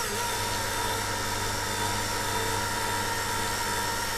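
Small electric polishing machine running at a steady speed on a plastic headlight lens, an even machine hum with a constant pitch.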